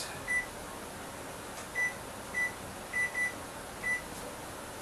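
Electronic control panel of a Whirlpool range beeping as its keys are pressed to set the oven timer: six short, high beeps at uneven intervals.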